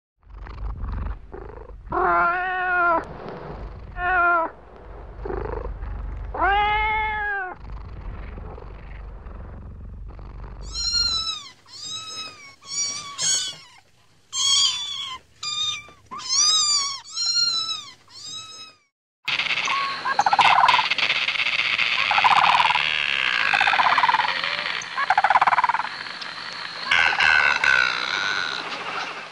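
Cats meowing. First come about five drawn-out, lower meows over a low rumble. Then follows a quick series of about eight high-pitched kitten mews. After a cut comes a busier stretch of overlapping high calls over a steady hiss.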